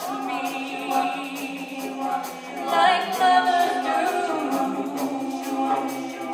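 Music: long held sung notes, as in a cappella or choir-like singing, with the pitch wavering about three seconds in.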